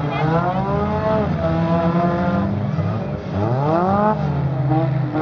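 Four-cylinder demolition-derby car engines running, revving hard twice so that their pitch climbs, over the steady rumble of other idling cars.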